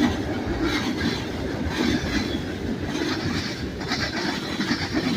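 Manifest freight train's cars rolling past, the wheels clattering with a regular beat about once a second. The noisy hammering is, as the onlooker guesses, the wheels striking the frog of a nearby switch.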